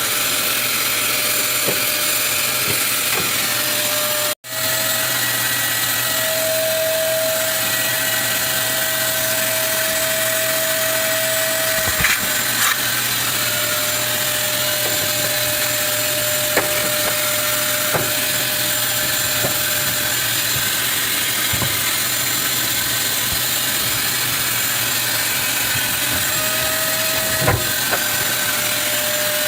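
Vacuum cleaner running steadily, with a whistling tone that comes and goes and a few sharp knocks.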